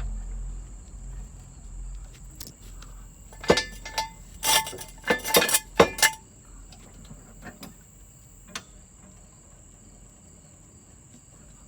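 Sharp metallic clanks and clinks from a car jack and jack stand being worked, bunched in a cluster of about seven knocks starting about three and a half seconds in and ending near six seconds. A steady high-pitched tone runs underneath.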